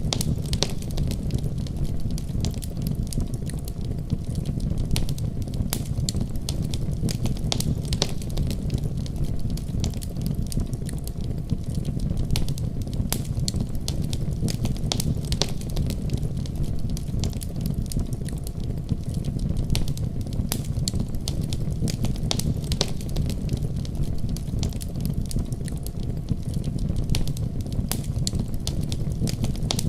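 Wood fire crackling with frequent irregular sharp pops over a steady deep rumble of storm wind.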